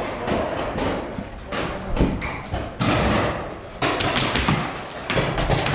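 Paintball markers firing rapid shots, a quick run of sharp pops several a second, with balls smacking the surrounding walls and barriers.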